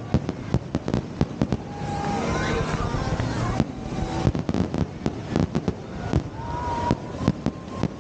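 Fireworks going off in quick succession: many sharp bangs and cracks, some close together and some spaced out, over a continuous noisy rumble.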